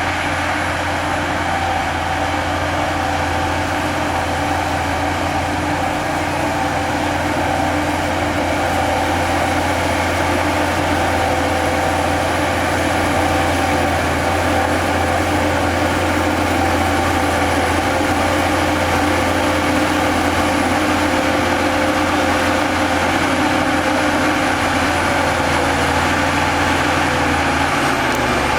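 Heavy diesel engine of earthmoving machinery running steadily, with a strong low hum and faint steady whining tones above it.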